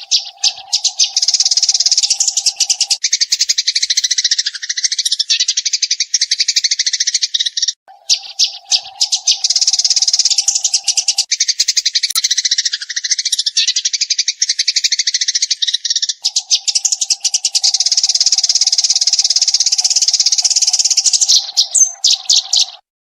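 Eurasian tree sparrow chirping in a dense, rapid-fire stream of high chirps, breaking off briefly about 8 seconds in and stopping abruptly near the end. A faint steady hum runs beneath it in stretches.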